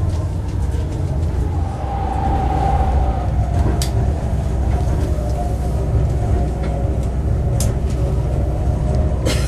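O-Train diesel railcar running along the track, heard from inside the car: a steady low engine-and-wheel rumble, with a few sharp clicks.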